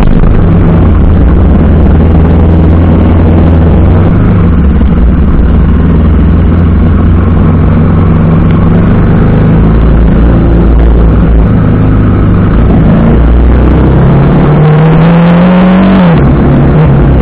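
TVS Apache RR310's single-cylinder engine running under way, loud, under heavy rushing noise from the ride. Near the end the revs climb for about two seconds, then drop sharply.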